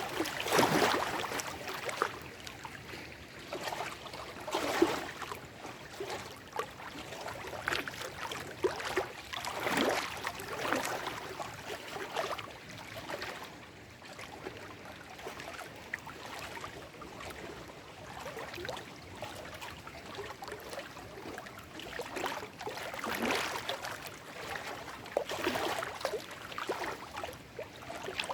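Small lake waves lapping and splashing against shoreline rocks, in irregular surges every second or two with softer gurgling between.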